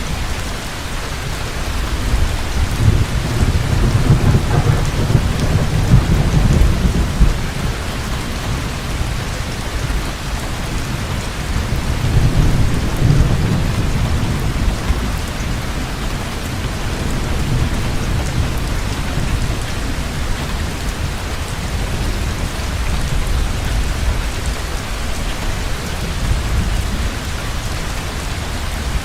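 Heavy rain pouring steadily, with rolls of deep thunder rumbling twice, from about two seconds in and again near the middle.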